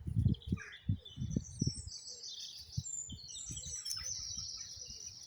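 Wild birds singing in the dawn chorus: high, fast trills and chirps overlapping. Low thumps and rumbles on the microphone, loudest in the first couple of seconds, sit underneath.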